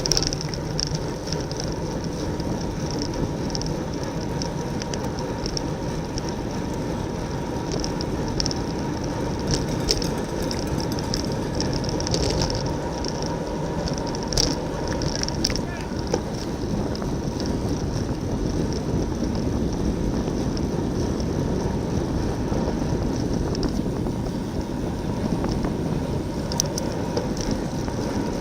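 Steady wind rush over the microphone of a bicycle-mounted camera at race speed, mixed with tyre and drivetrain noise and a few scattered clicks.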